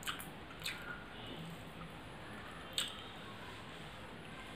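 Close-miked mouth sounds of a person chewing a mouthful of rice and curry: a few short, wet smacking clicks, the loudest near three seconds in.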